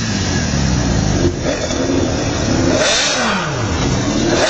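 Supercar engine running and revving; about three seconds in its pitch falls away sharply.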